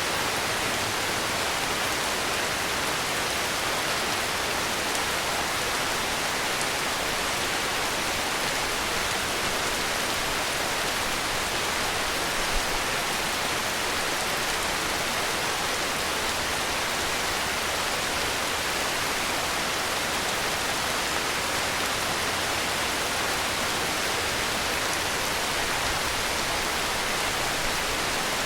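Heavy rain falling steadily, an even, unbroken hiss with no change in strength.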